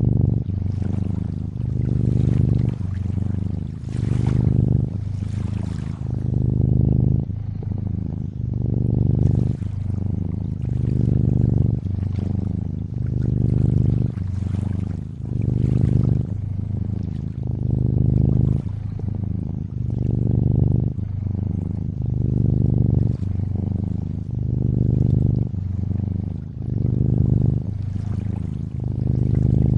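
A domestic cat purring steadily, its low rumble swelling and easing about once every two seconds with each breath, over gentle lakeside water sounds trickling softly.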